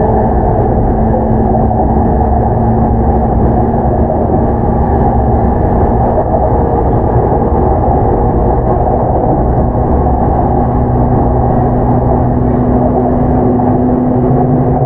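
Inside an E233-7000 series commuter train running between stations: a steady rumble of wheels on rail. A low hum drops out for a few seconds midway and comes back slightly higher.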